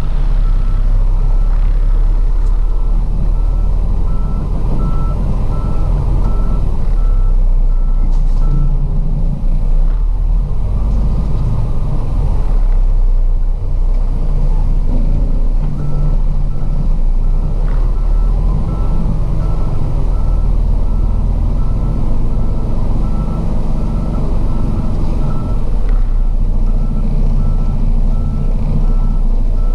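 Heavy truck's diesel engine running steadily with a deep rumble, under a reversing alarm beeping at an even pace. The beeping stops for several seconds partway through, then starts again.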